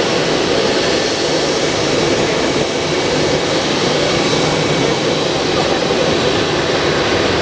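Jet airliner landing: a steady, loud rush of jet engine and airflow noise that neither rises nor falls.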